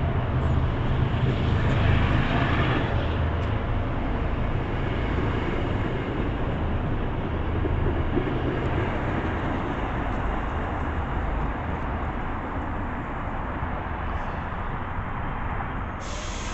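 Train running on the tracks, a steady rumble that slowly fades as it moves away.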